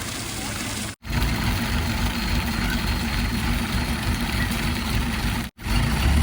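Heavy diesel engine running steadily, heard in short clips cut together, a little louder in the last half second.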